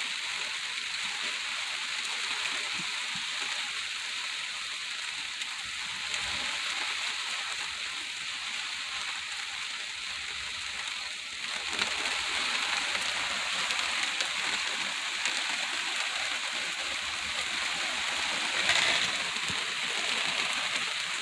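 Steady rain falling in a thunderstorm, a hiss of drops that gets heavier about halfway through.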